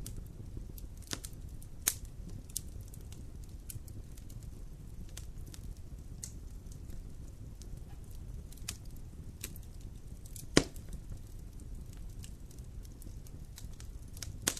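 Wood campfire crackling: scattered sharp pops and snaps at irregular intervals, one much louder pop about ten and a half seconds in, over a low steady rumble.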